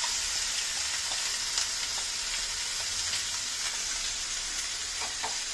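Marinated minced chicken sizzling steadily in hot oil in a frying pan as it is scraped in from a bowl, with a few light clicks of the spoon.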